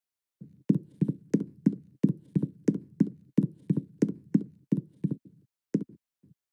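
A firework, likely a repeating cake or Roman candle, firing a rapid, regular series of sharp pops, about three a second. The shots thin out and stop near the end.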